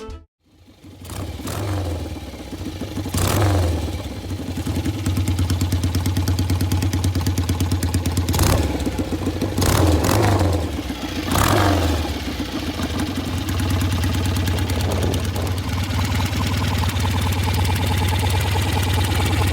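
1941 BSA M20's single-cylinder side-valve engine running after a moment of silence, its throttle blipped about four times in the first twelve seconds, then settling into a steady idle.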